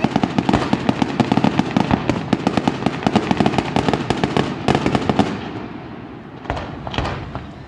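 Aerial fireworks going off: a dense, rapid run of crackling pops and bangs for about five seconds that then dies away, followed by a couple of separate bangs near the end.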